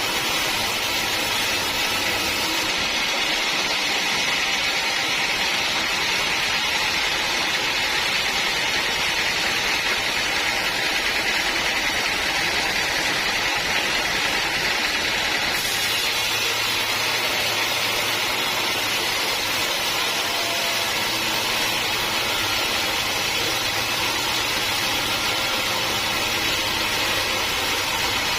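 Sawmill machinery running steadily, a constant loud mechanical noise without breaks.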